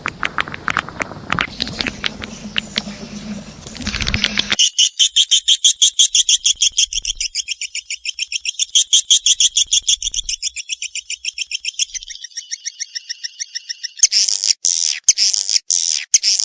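Edible-nest swiftlet lure call: rapid, high twittering chirps, several a second. It is spliced from recordings that switch abruptly about four and a half, twelve and fourteen seconds in.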